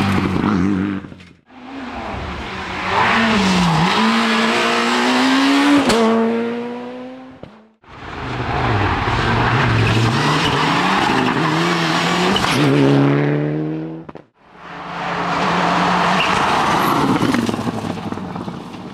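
Rally cars at speed on a shakedown stage: engines revving hard, their pitch falling and climbing through gear changes. Three separate passes follow one another, each fading out briefly before the next.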